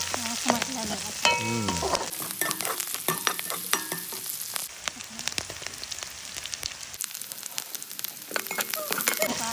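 Shallots and curry leaves sizzling in hot oil in a kadai, stirred with a perforated steel slotted spoon that clicks and scrapes against the pan. The stirring is busiest in the first couple of seconds and near the end, with a steadier sizzle in between.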